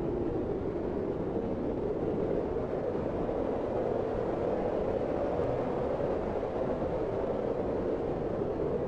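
Snowstorm wind ambience: a steady, low, even rush of wind with no crackles or pops.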